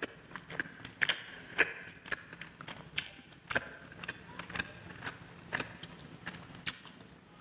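Close-miked mukbang eating sounds: irregular wet clicks and smacks of a mouth chewing a sweet, about one or two a second.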